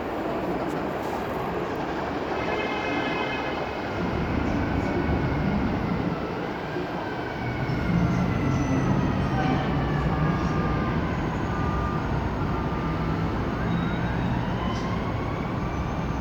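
R188 subway train pulling out and running along the track, a steady rumble that grows louder partway through. Thin whining tones glide up and down in pitch over it, one rising sharply near the end.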